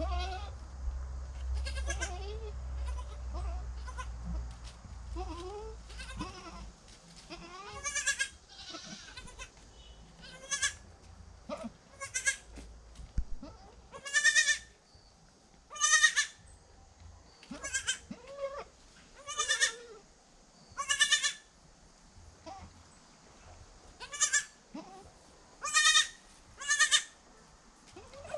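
Goats bleating, soft calls at first, then a run of loud, high bleats about every second or two. A low rumble runs under the first few seconds.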